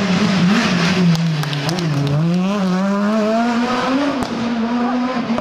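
A competition rally car's engine running hard, its pitch sagging to a low point about two seconds in and then climbing again as it accelerates. A few sharp pops sound over the engine note.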